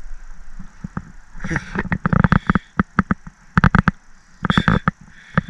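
Rapid clatter of sharp knocks and rattles in several quick flurries as a freshly landed pickerel and its tackle are handled in a kayak.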